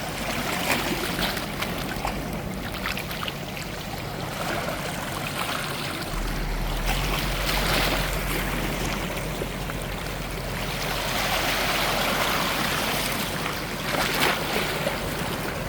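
Small sea waves washing in and out over stones in shallow water, the wash swelling and easing in turn, with a few sharp splashes near the end.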